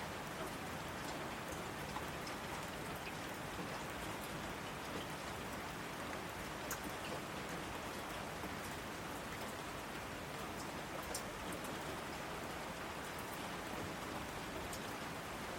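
Steady rain falling, an even hiss with scattered sharp drips of individual drops hitting a surface.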